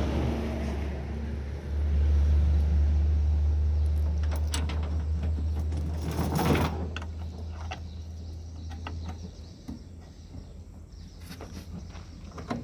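Komatsu D31E-20 bulldozer's diesel engine running under load with a deep steady drone as the machine climbs onto a towing truck. The drone swells about two seconds in and fades away after about seven seconds. Scattered metal clanks and knocks, the loudest about six and a half seconds in.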